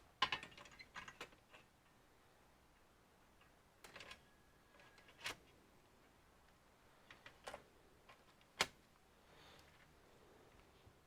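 Faint scattered clicks and taps of small computer parts and tools being handled: a quick cluster at the start, then a few single sharper clicks spaced a few seconds apart.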